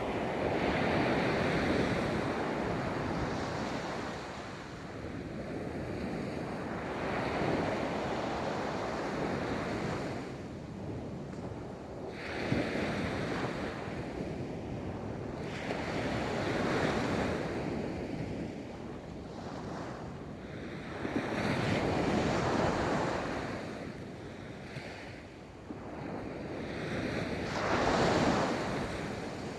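Ocean waves breaking and washing up a beach, the surf swelling to a rush and fading back about every four to six seconds.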